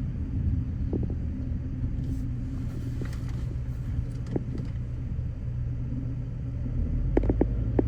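Steady low rumble of a car driving in traffic, engine and road noise, with a few short clicks, several close together near the end.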